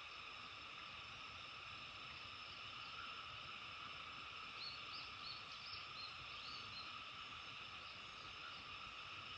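Faint, steady chorus of frogs and insects, with a bird giving a quick run of about seven short, high, upward-flicking notes around the middle.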